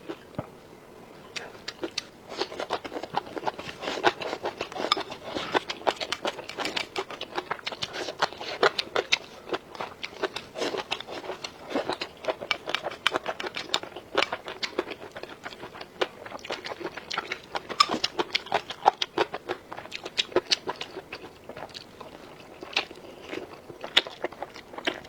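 Close-miked chewing and biting of food, a steady run of crisp, irregular crunches and wet clicks of the mouth, several a second.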